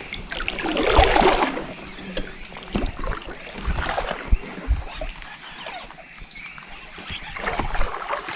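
Kayak paddle strokes dipping and splashing in the water, several strokes at uneven intervals, the strongest about a second in.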